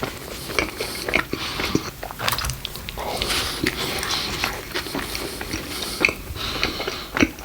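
A person chewing and biting food close to the microphone, with wet, irregular smacking and clicking mouth sounds.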